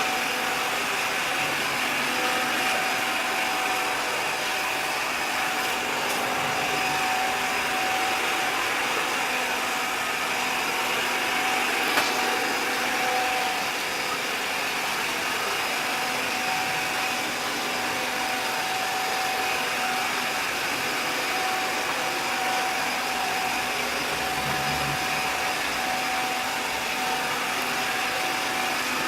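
Robot vacuum cleaner running steadily, an even motor hum with a thin steady whine, and one sharp click about twelve seconds in.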